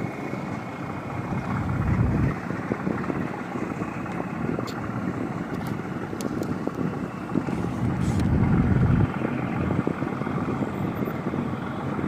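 Boat diesel engine running steadily, with wind buffeting the microphone about two seconds in and again near the end.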